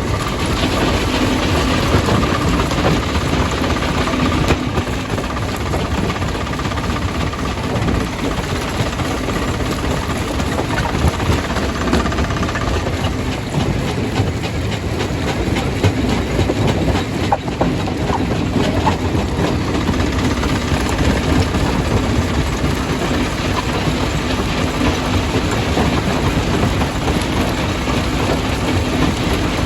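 Jaw crusher crushing stone: a dense, continuous clatter of rock knocking and grinding, over a steady machine hum.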